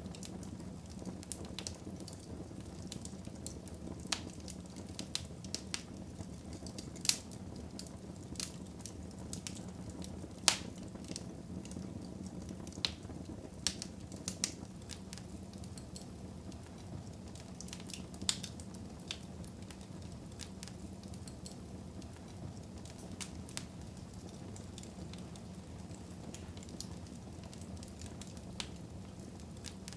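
Wood fire burning in a fireplace: a steady low rumble of flames with irregular crackles and sharp pops, more frequent in the first half, the loudest about ten seconds in.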